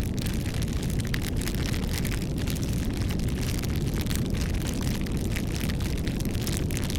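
Wood fire burning: a steady low rumble with frequent sharp crackles and pops.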